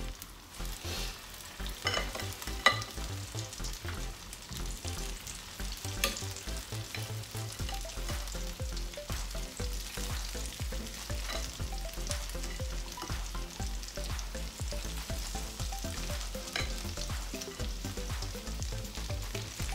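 Akara (bean-batter fritters) deep-frying in hot oil in a frying pan: steady sizzling with constant fine crackling, and a couple of sharper clicks about three and six seconds in.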